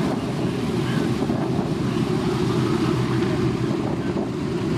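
B-17 Flying Fortress's four Wright R-1820 Cyclone radial engines running with a steady low drone, with wind buffeting the microphone.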